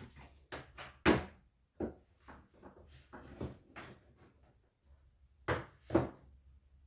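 A series of irregular wooden knocks and bumps, as of boards or plywood being handled and set down on a workbench. Two knocks stand out as the loudest, one about a second in and another near the end.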